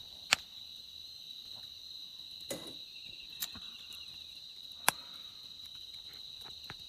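Crickets chirping steadily in a high, even trill, with a few sharp snaps, two of them loud, about a third of a second and five seconds in.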